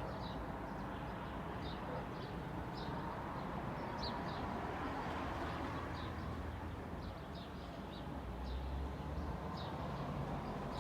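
Small birds chirping, short repeated calls throughout, over a steady low rumble of distant traffic that swells slightly near the end.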